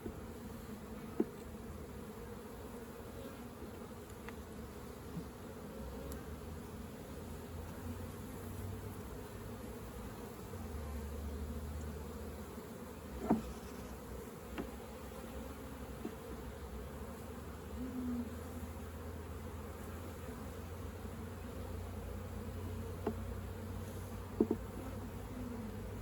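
Honeybees buzzing in a steady hum around the opened swarm trap and hive, with a few sharp ticks about a second in, midway and near the end.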